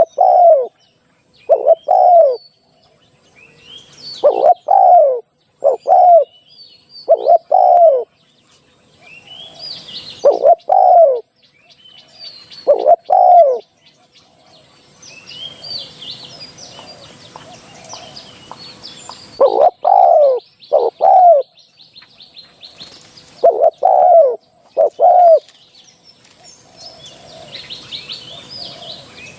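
Spotted dove cooing: loud, low, rounded coos given in short groups of two or three with pauses between, while small birds chirp faintly in the background.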